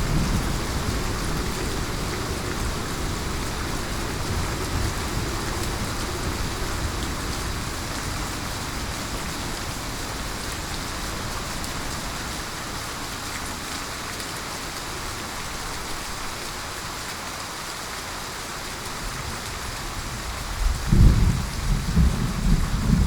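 Steady heavy rain falling, with low thunder rumbling early on that dies away, then a loud thunderclap rolling near the end.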